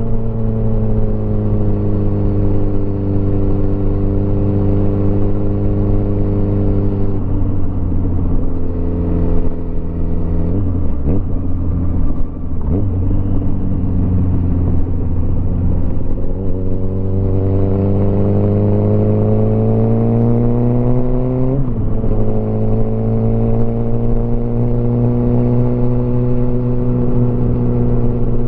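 Motorcycle engine heard from the rider's seat. Its note sinks slowly as the bike slows, with two short revs near the middle. It then climbs in pitch under acceleration, drops sharply at a gear change a little past two-thirds of the way through, and settles to steady cruising.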